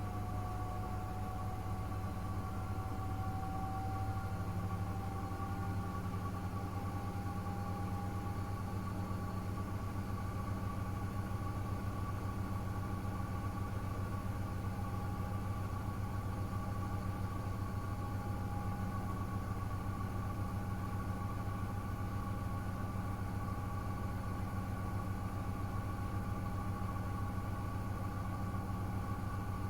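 Miele W1 washing machine running on a 60 °C cotton programme: a steady motor hum with a whine, one tone rising slightly in pitch over the first several seconds.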